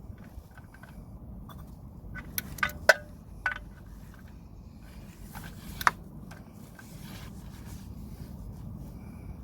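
A few sharp metallic clinks and knocks, the loudest about three seconds in and another near six seconds, from parts or hand tools being handled during an oil change, over a steady low rumble.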